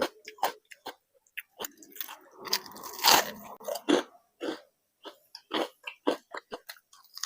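Close-miked eating: chewing and crunchy bites of food with wet mouth clicks, the loudest crunching about three seconds in.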